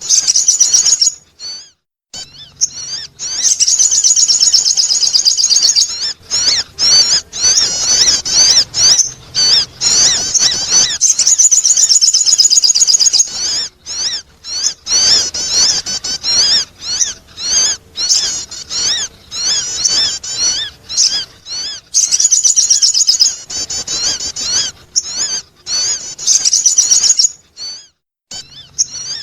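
Sogon bird calls played as a lure: long runs of rapid, high-pitched twittering and chirping warbles, broken every few seconds by short pauses.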